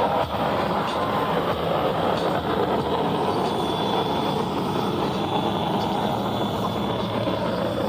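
Jet engine noise from a US Navy F-35C's single Pratt & Whitney F135 turbofan: a loud, steady rumbling roar with no breaks, and a faint thin whine over it for a couple of seconds in the middle.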